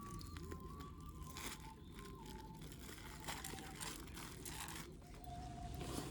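A soft alto recorder melody, single pure notes stepping up and down. Irregular crunching and crackling clicks run beneath it.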